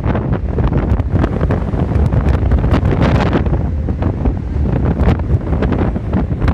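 Storm wind buffeting the microphone: a loud, uneven rumble with rough gusts.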